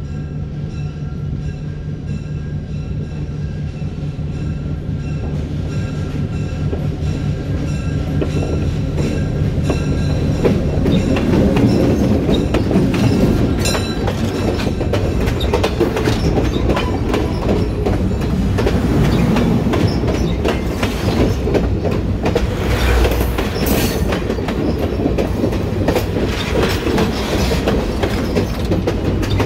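A diesel passenger train approaches along the track, its engine a steady low drone growing louder. From about ten seconds in, the passenger cars roll past at close range, their steel wheels clacking and rumbling over the rail.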